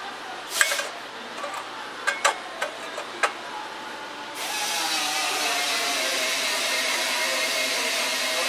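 A few sharp clicks and knocks of tools being handled, then about four seconds in a power tool starts and runs steadily with a hissing whine.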